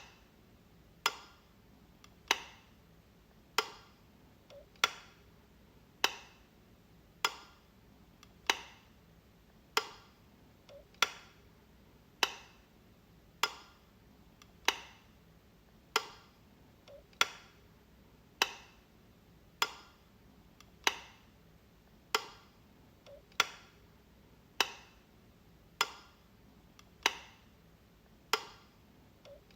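Light switch being flicked over and over, a sharp click about every second and a quarter, each with a faint click just before it.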